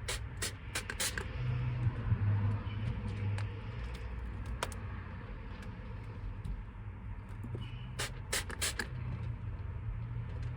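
Handheld spray bottle squirting several times in quick succession, once at the start and again about eight seconds in, as the window tint film is wetted. A low steady hum runs underneath.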